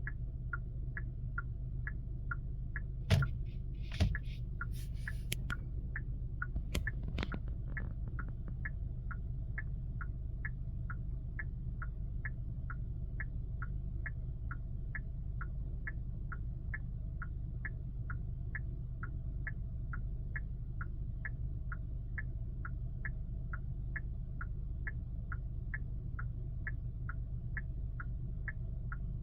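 Genesis GV80 turn-signal indicator ticking steadily, a little under two ticks a second, over a low cabin hum, with a few louder sharp clicks a few seconds in. The owner reports this indicator sound as cutting out intermittently.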